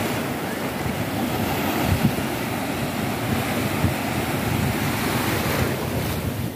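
Ocean surf breaking and washing up a beach, with wind rumbling on the microphone.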